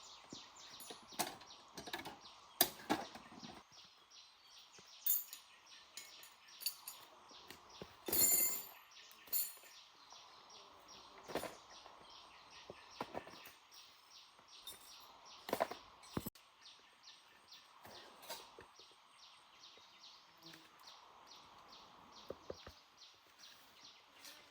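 Scattered sharp knocks and clicks, the loudest a short cluster about eight seconds in, over a fast, even ticking of about four or five a second.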